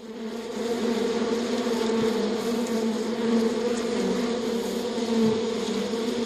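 Insects buzzing steadily, a continuous low hum with no breaks.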